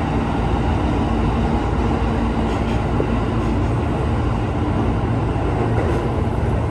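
Steady low rumble of a moving commuter train, heard from inside the carriage, with a faint steady hum underneath.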